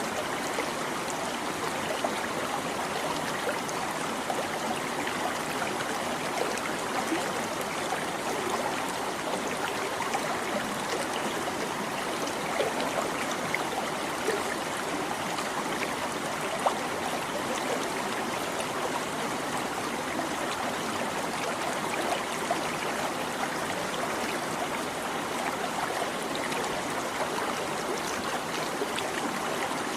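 Small stream babbling steadily, water trickling and splashing over stones.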